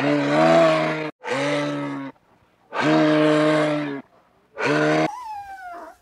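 Cow mooing four times, each call about a second long with a low, steady pitch. Near the end a cat gives one falling meow.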